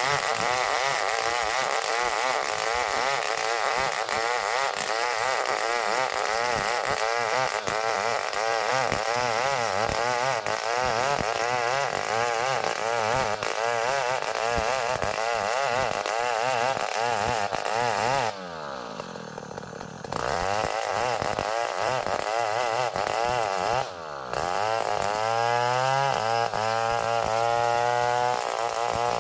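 Two-stroke chainsaw cutting Bornean ironwood (ulin), its engine pitch wavering under the load of the cut. About 18 seconds in the engine drops off briefly and revs back up, dips again about 24 seconds in, then runs with a steadier, clearer note.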